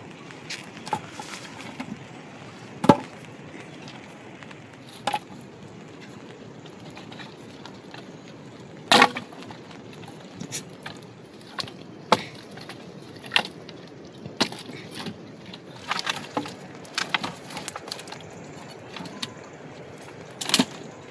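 Irregular sharp knocks and clicks, a few much louder than the rest, over a steady background hiss.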